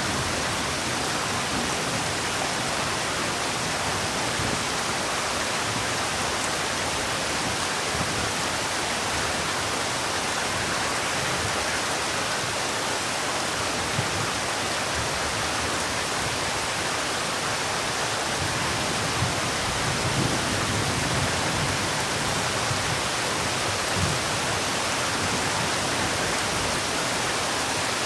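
Heavy rain falling steadily, a dense even hiss with faint low rumbling underneath.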